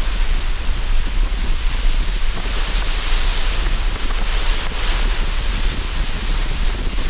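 Sea surf washing in under strong wind, a steady roar with a deep rumble of wind on the microphone; a wave surges and hisses up about two and a half seconds in and falls back near five seconds.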